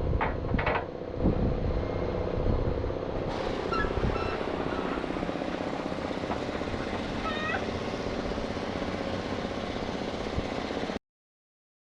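A machine running steadily, with a few knocks in the first second or two and a couple of short high squeaks about 4 and 7 seconds in. It cuts off abruptly near the end.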